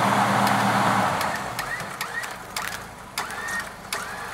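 A Jeep's electric winch motor running under load with a steady hum, which cuts off about a second in. Then a few sharp clicks over a quieter background, with birds chirping in short rising notes.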